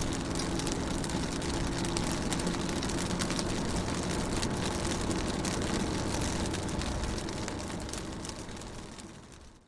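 Rain falling on a car's windows and roof, heard from inside: a steady patter of drops with a low steady hum beneath. It fades out near the end.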